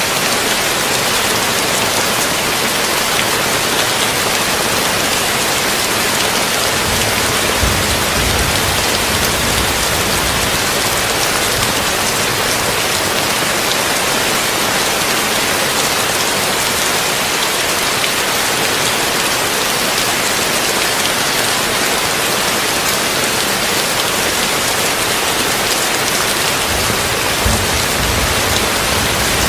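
Heavy rain drumming steadily on a tin roof, a dense unbroken hiss, with a brief low rumble about eight seconds in and another near the end.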